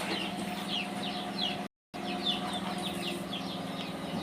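Birds chirping in a rapid series of short, high, falling peeps, about four or five a second, over a steady low hum. The sound drops out completely for a moment a little under two seconds in.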